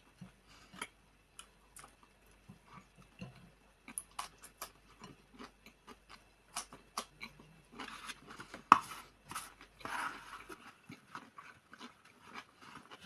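Close-up mouth sounds of a person eating instant noodles: wet smacks and clicks as she chews. A crisp green vegetable piece makes crunchier bites from about eight to ten seconds in, the loudest a sharp crack near nine seconds.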